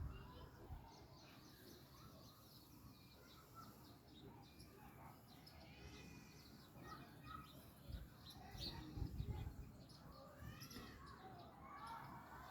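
Faint bird chirps and calls, short high notes repeated throughout, with a few low bumps about eight and nine seconds in.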